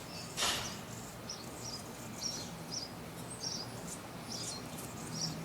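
Small birds chirping outdoors, short high chirps about two a second, over faint steady background noise. A brief rush of noise about half a second in is the loudest moment.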